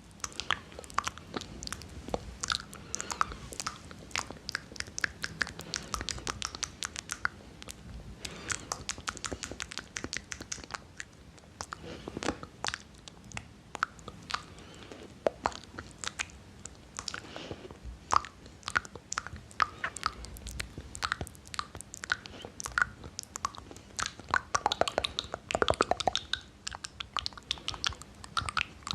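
ASMR mouth sounds: a dense, irregular stream of clicks and smacks from the lips and tongue.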